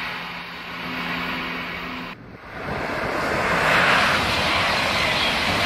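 High-speed electric trains passing at speed, a loud rushing of wheels and air. For the first two seconds the rush is under a low steady hum. After a sudden cut a second train's rush swells up, loudest about four seconds in.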